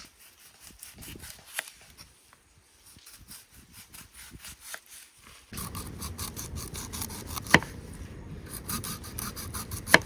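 A quick rhythmic run of short rasping, scraping strokes, with two sharper clicks standing out, one about three-quarters through and one at the end.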